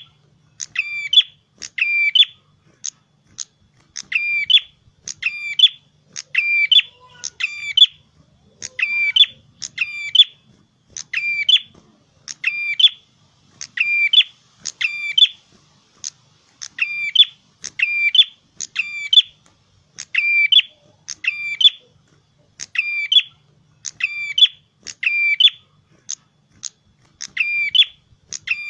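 A prenjak kepala merah, a prinia-type songbird, calling energetically ('gacor'). It repeats a short, sharp, high call over and over, about one to two a second, often in pairs, with a few brief pauses.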